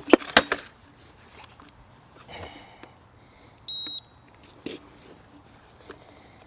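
A quick clatter of sharp knocks, then a single short, high electronic beep a few seconds later, with a couple of lighter knocks after it.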